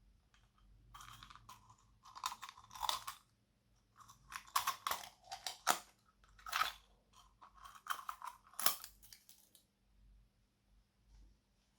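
Hands squishing and kneading slime with crunchy, crackling sounds in three bursts, dying away near the end.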